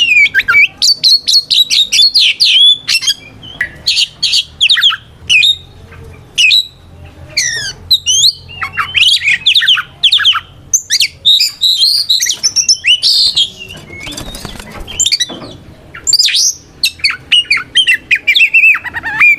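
Oriental magpie-robin (kacer) singing loudly: quick runs of clear whistled notes that sweep up and down, broken by short pauses, with harsher scratchy calls about midway. This is the male's aggressive challenge song, calling out a rival.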